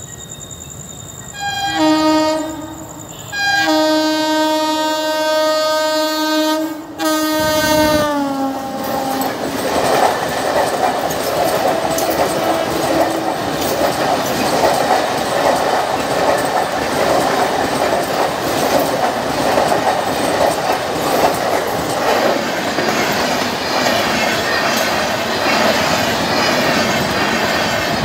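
WAP-7 electric locomotive's air horn sounding a short blast and then a long one, the last falling in pitch as it ends. Then the Garib Rath express's coaches run past over the level crossing, a loud steady rumble with wheel clatter.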